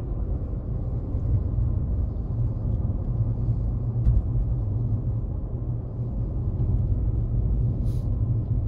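Inside the cabin of a Volkswagen Lupo 3L while driving: steady low rumble of its three-cylinder diesel engine and road noise, with a faint click about four seconds in.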